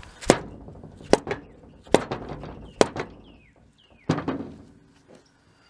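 Five sharp hammer blows, roughly a second apart, each ringing briefly, struck on a Blackmer fuel pump to free bearings that are rusted onto its shafts.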